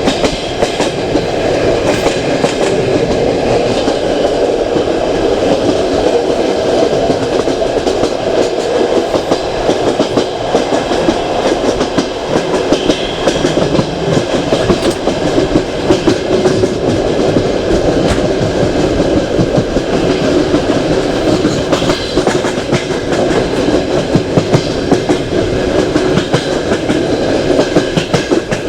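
Passenger train running at speed, heard from a carriage window: a steady rolling rumble of steel wheels on rail with frequent clicks and clatter over rail joints.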